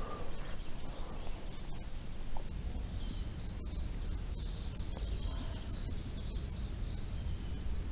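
Lakeside ambience: a steady low rumble of wind, with a small bird singing a run of about ten short, high, repeated notes in the middle.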